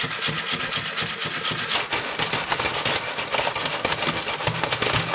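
Jiffy Pop popcorn popping in its foil stovetop pan: a fast, dense run of kernels bursting.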